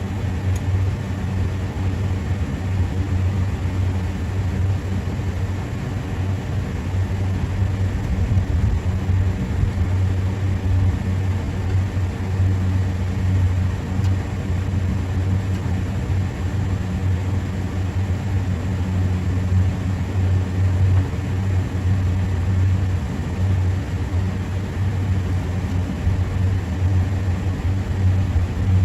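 Steady low machinery hum with a strong low drone, unchanging throughout.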